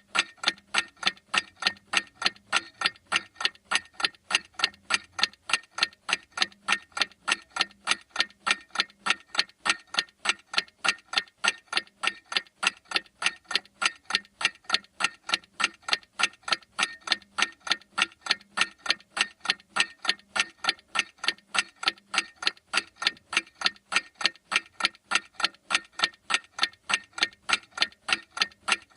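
Clock ticking with steady, evenly spaced sharp ticks.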